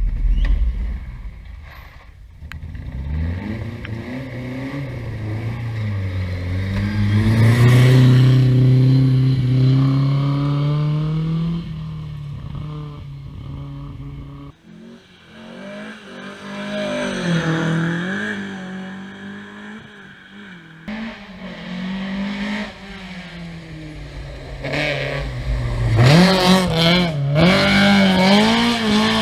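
Historic rally car engines revving hard as cars pass one after another, rising and falling in pitch with the throttle and gear changes, with the loudest pass near the end.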